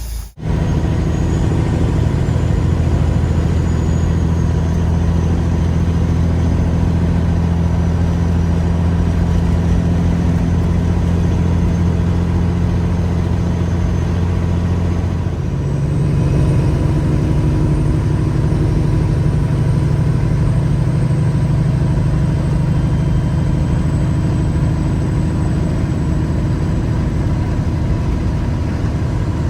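Peterbilt 359 dump truck's diesel engine running steadily, its note shifting to a slightly different pitch about halfway through.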